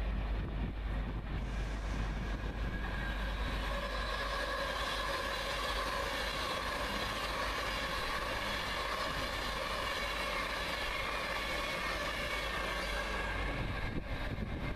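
Virgin Trains express passenger train passing through at speed: a rush of wheel and air noise with a steady multi-tone whine that builds over the first few seconds and fades near the end. Wind buffets the microphone throughout.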